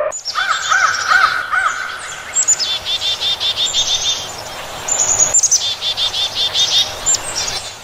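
Birds singing and chirping: repeated arching chirps and quick runs of high notes, with an abrupt break about five seconds in.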